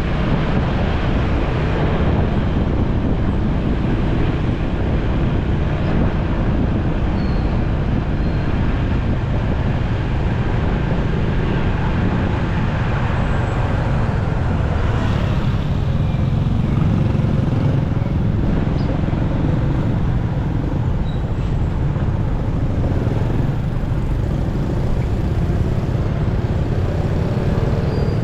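Motorcycle riding through city traffic: steady engine, road and wind noise heaviest in the low range, with the surrounding traffic mixed in.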